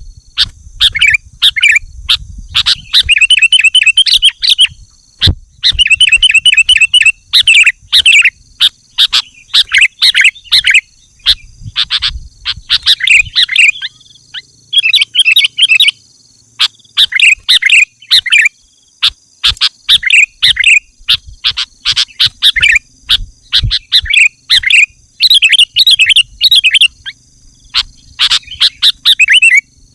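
Sooty-headed bulbul calling in loud, short bursts of rapid chattering notes, one burst every second or so, as a challenge call to rival bulbuls. A faint, steady high-pitched tone runs behind the calls.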